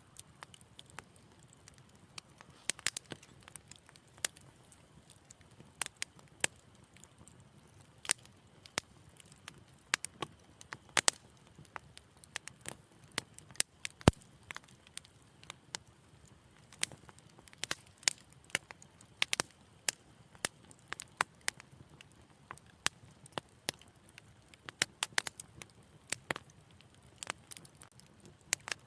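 Wood fire crackling in a fireplace: irregular sharp pops and snaps over a soft low rumble, the loudest pop about 14 seconds in.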